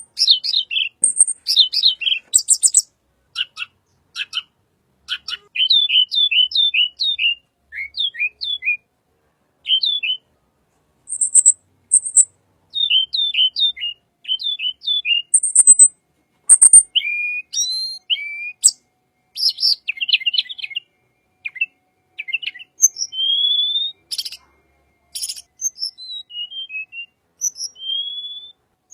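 Tledekan songbird singing a varied song: quick runs of short down-slurred whistles, broken by brief pauses and mixed with very high thin notes, with a few rising whistles near the end.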